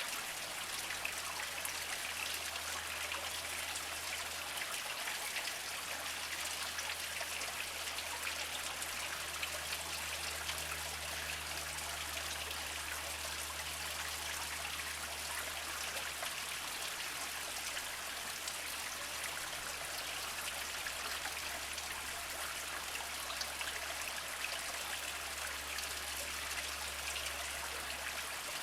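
Small mountain spring trickling and dribbling over mossy rocks, a steady even splashing with fine droplet patter.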